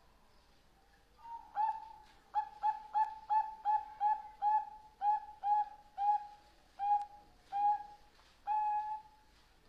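Zebra dove (perkutut) singing: a run of about fifteen short, clipped cooing notes starting about a second in. The notes come fastest in the middle, then space out, and the run ends on one longer held coo.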